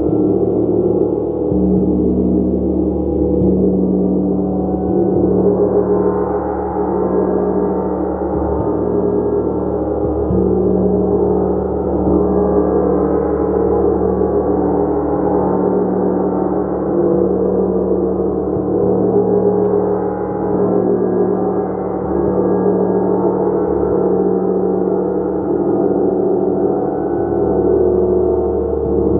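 Large gong played continuously as a sustained, swelling wash of many overlapping tones, the strokes blurred into one dense shimmer that rises and falls gently in loudness.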